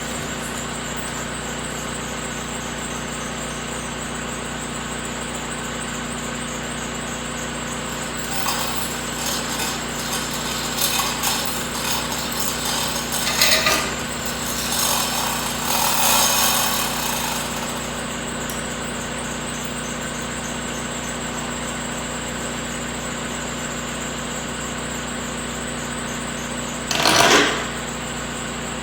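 An engine idling steadily. Irregular mechanical clatter comes over it in the middle, and there is one short, loud burst of noise near the end.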